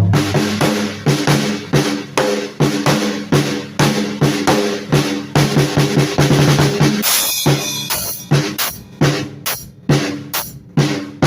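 Drum kit being played loosely and without a set groove: rapid strikes on pitched drums, snare and bass drum. About seven seconds in there is a brief splashy crash, after which the hits resume.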